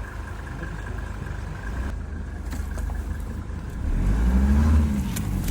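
An engine running steadily, its pitch briefly rising and falling and growing louder about four seconds in.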